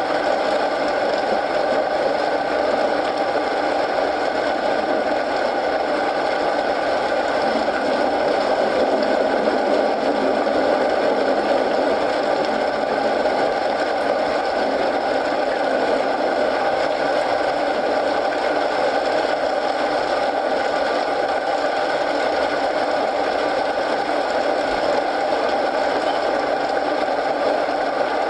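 Steady rain mixed with the continuous crackle of a wood fire in a fireplace.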